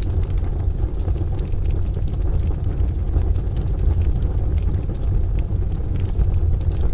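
Wood-burning stove fire crackling, with sharp pops scattered irregularly through, over a steady low rumble.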